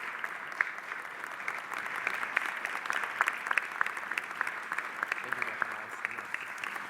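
Audience applauding steadily: many hands clapping at once, a dense patter of claps.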